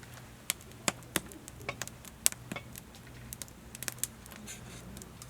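Wood fire crackling: irregular sharp pops and snaps, with a brief hiss near the end and a faint steady low hum underneath.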